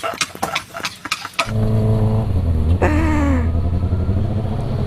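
Kawasaki ZX-25R 250 cc inline-four engine running at steady revs from about a second and a half in, after a stretch of irregular ticking noise. A brief falling tone sounds over it about three seconds in.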